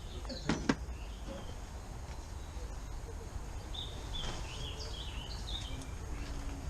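A small bird chirping several short notes in quick succession, over a steady low background rumble, with a couple of light knocks just after the start.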